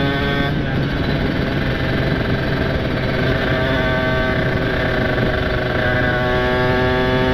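Kawasaki Ninja RR two-stroke motorcycle engine with a ported engine and an aftermarket exhaust, heard while riding with wind rushing past the helmet. The engine note falls off about half a second in, then climbs slowly again as the bike picks up speed.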